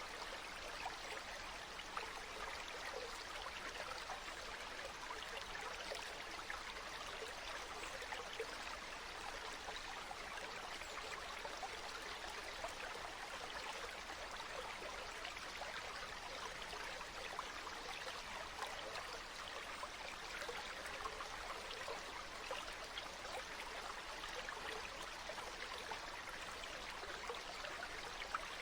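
Stream water flowing steadily, an even rush with small splashes and trickles.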